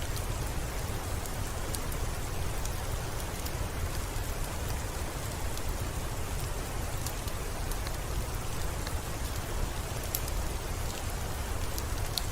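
Steady rain falling, with a deep continuous rumble underneath and scattered sharp ticks on top.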